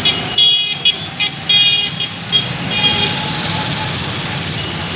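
Busy road traffic running steadily, with vehicle horns honking in a run of short blasts over about the first three seconds.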